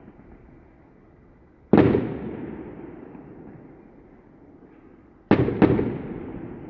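Aerial firework shells bursting: one loud boom about a quarter of the way in, then two more booms in quick succession near the end, each fading away slowly.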